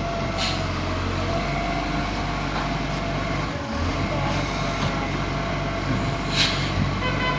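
Garbage truck engine running steadily with a deep hum, with two short hisses, about half a second in and again near the end.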